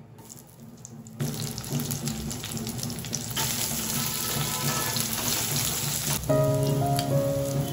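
Sliced onions and green chillies sizzling in hot oil in a nonstick wok as they are stirred with a steel spatula, the tempering stage for khichdi with bay leaves, dried red chillies and cumin. The sizzle comes in suddenly about a second in and is strongest in the middle; background music with a melody comes up near the end.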